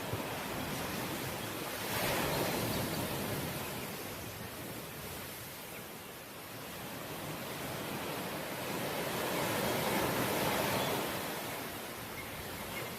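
Ocean waves breaking and washing on the shore: a steady surf hiss that swells with a wave about two seconds in and again with a longer surge near the end, easing between them.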